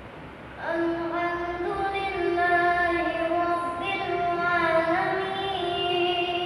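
A boy's voice reciting the Quran aloud in long, held melodic notes, as in the audible part of the Isha prayer; the voice enters about half a second in after a brief pause.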